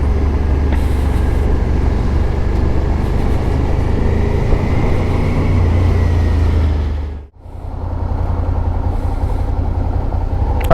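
Suzuki SV650 V-twin being ridden through traffic, heard as a loud steady rush of wind and engine noise on the rider's microphone. The sound cuts out for a moment about seven seconds in, then comes back.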